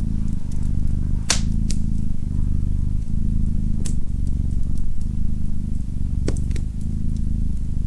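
Domestic cat purring steadily in even in-and-out cycles under a second long, with a wood fire crackling: about five sharp pops and snaps, the loudest about a second in.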